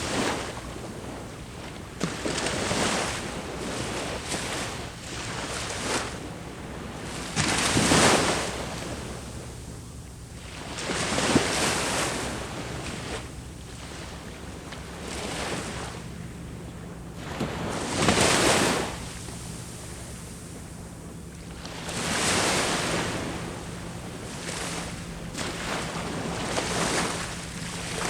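Sea waves breaking on the shore, each surge swelling and fading over a few seconds, the loudest about 8 and 18 seconds in.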